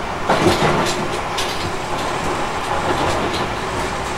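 Interior running noise of a Tobu 50050-series electric train's motor car in motion: a steady rumble from the wheels on the track, with a few sharp clacks as the wheels pass rail joints. The air conditioning is running.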